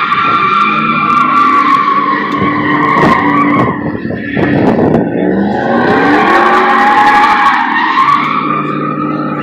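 Tyres squealing in a long burnout, a sustained wavering screech, with an engine revving underneath.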